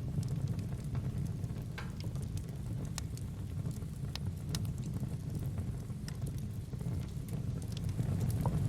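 Fireplace ambience: a steady low rumble of burning wood with scattered sharp crackles and pops.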